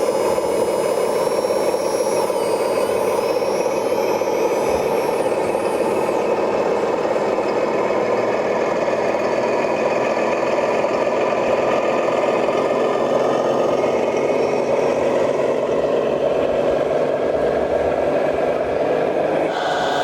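Radio-controlled model truck running with a steady, diesel-like engine sound. High whining tones rise and fall over the first few seconds, then stop.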